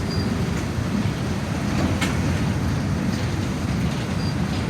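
Freight train cars rolling past at a grade crossing: a steady low rumble, with one sharp click about two seconds in.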